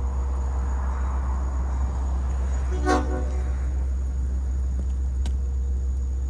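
Diesel locomotive idling with a steady low rumble. About three seconds in, its horn gives one short toot.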